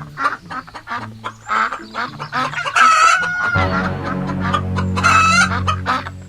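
Chickens clucking with repeated short calls. From a little past halfway, a low steady drone sounds under them.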